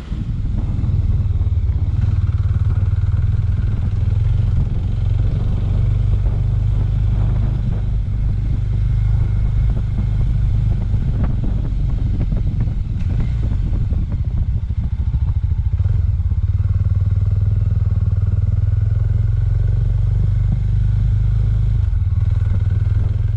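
Suzuki 250 motorcycle engine running steadily under way, heard from the rider's own bike, with a few short knocks over the middle stretch.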